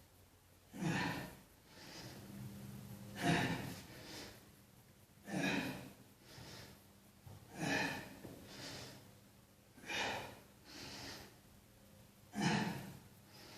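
A man breathing hard under exertion: six sharp, forceful breaths about two seconds apart, each followed by a softer breath, in a steady rhythm with his exercise repetitions.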